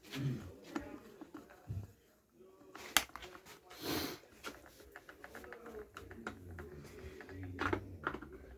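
Scattered small clicks and knocks of hand work on a chainsaw, with one sharp click about three seconds in and a brief hiss about a second later, over faint indistinct voices.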